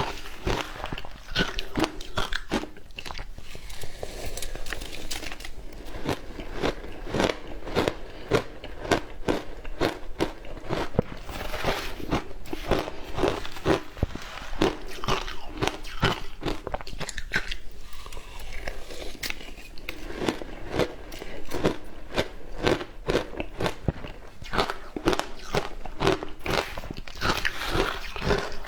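Frozen matcha ice being bitten and chewed close up: a continuous run of sharp, irregular crunches and cracks.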